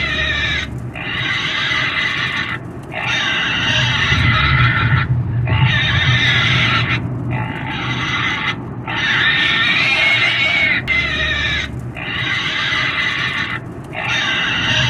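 Pig squealing and screaming over and over: a run of long, high cries, each a second or two, broken by short pauses for breath.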